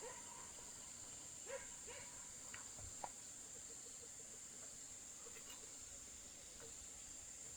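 Faint steady high-pitched insect drone, with a couple of soft short animal calls about one and a half to two seconds in and a few faint clicks.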